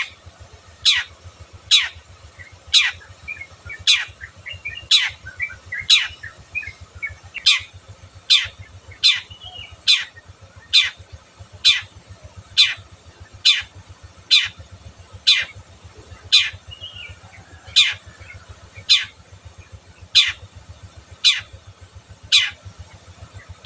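Long-tailed shrike (cendet) calling: a loud, harsh note sweeping steeply downward, repeated about once a second, with softer quick chattering notes between.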